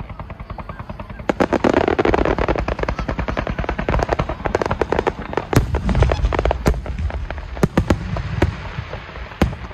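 Fireworks finale barrage: a rapid, dense string of aerial shell bursts and crackling stars, building about a second and a half in, with the heaviest low booms around six seconds in.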